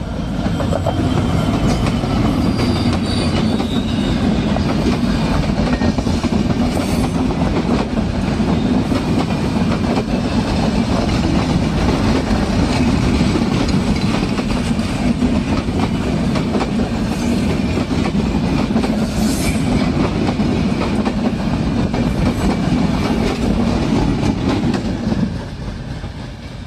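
A train running past with its wheels clattering over the rail joints, loud and steady, dropping away sharply near the end.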